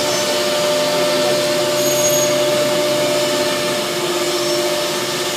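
Woodworking CNC engraving machines running, a steady loud machine noise with a constant whine from the spindles.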